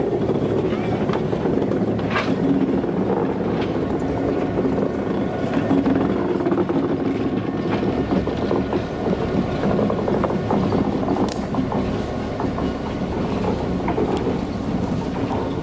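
Passenger train passing close by: coaches rolling over the rails with a few sharp wheel clicks, and a diesel locomotive's engine running steadily as it goes by.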